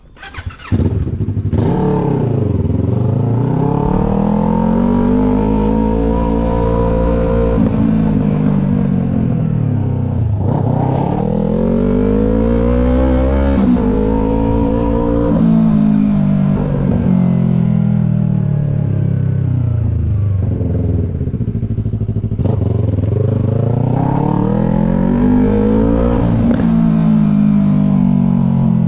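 Yamaha MT-03's 321 cc parallel-twin engine through a full Disarsz aftermarket exhaust, starting suddenly about a second in and then revving up and dropping back again and again in long sweeps.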